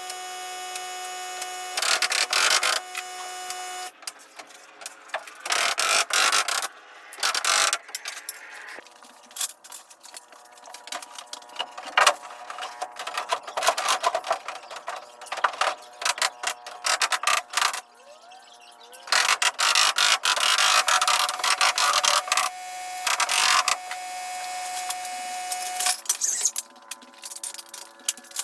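Carpentry power-tool work on wood: a motor runs with a steady whine for the first few seconds and again from about two-thirds through, broken by loud bursts of noise and many sharp knocks and clicks.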